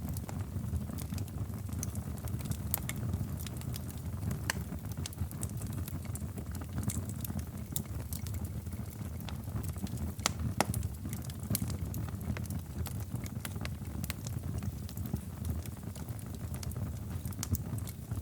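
Wood fire burning in a fireplace: a steady low rumble of the flames with irregular crackles and small pops, one sharper pop about ten seconds in.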